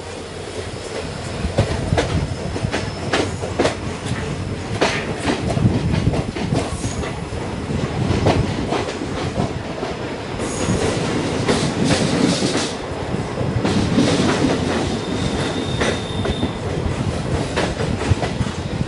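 Indian Railways passenger coach rolling along the track, its wheels clacking irregularly over rail joints under a steady rumble, with a brief high wheel squeal near the end.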